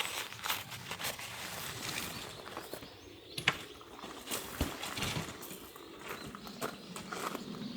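Irregular clicks, knocks and rustling: a handful of short sharp sounds at uneven spacing, the loudest about three and a half and four and a half seconds in.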